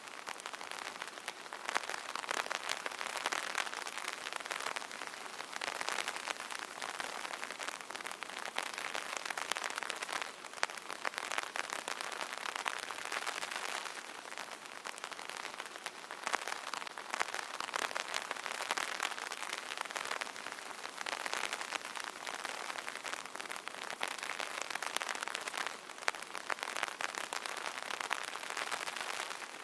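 Light rain pattering on an open umbrella, a dense, even spatter of drops that swells and eases every few seconds.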